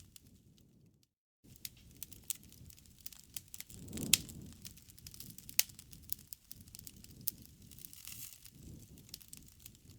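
Wood fire crackling, with irregular sharp pops over a low rumble of burning. The loudest pop comes about four seconds in. The sound cuts out completely for a moment a little after one second.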